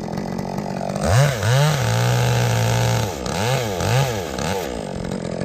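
Chainsaw engine revving: two quick runs up about a second in, held at high speed for about a second, then three short blips of the throttle before dropping back to idle.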